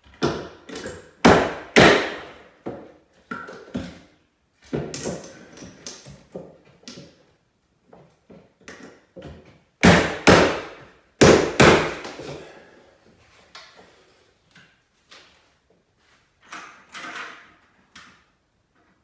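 Irregular knocks, thuds and scraping of wooden window trim being handled and worked, in loud bunches with pauses between them.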